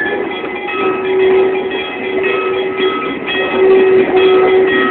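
Excursion train rolling slowly along the track: steady running noise with a sustained tone through it.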